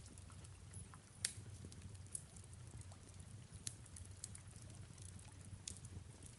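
Fireplace crackling softly, with scattered sharp pops (one louder pop about a second in), over a low steady rumble and a soft hiss of rain.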